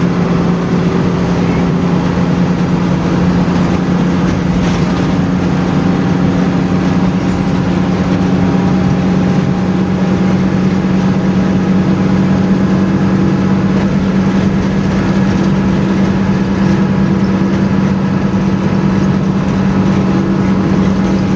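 Bus engine running steadily at highway speed, a constant low drone over road and tyre noise.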